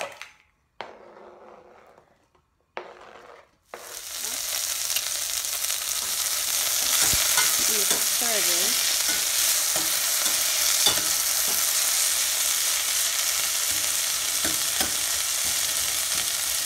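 Sliced onion and red bell pepper sizzling in hot oil in a stainless steel pot, starting suddenly about four seconds in and then holding steady. The food is turned with tongs, with a few light clicks of the tongs against the pot.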